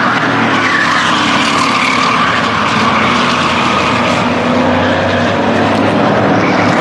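Race trucks running laps on a short oval, several engines at once, their pitches rising and falling as they pass and change speed.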